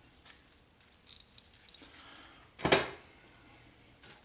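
Small metal clinks of tools and engine parts being handled during disassembly of the mower engine's intake, with one loud metallic clank about two and a half seconds in.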